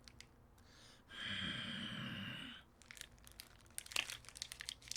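Plastic snack wrapper crinkling and being torn open, with faint scattered rustles. About a second in comes a steady hiss lasting about a second and a half.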